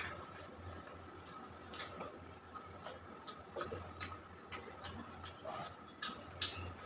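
Close-up chewing of rice and chicken curry: wet mouth clicks and lip smacks at an irregular pace, with one louder smack about six seconds in.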